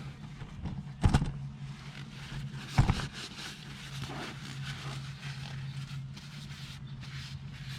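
Two sharp knocks, about a second and about three seconds in, over a steady low hum and faint scraping.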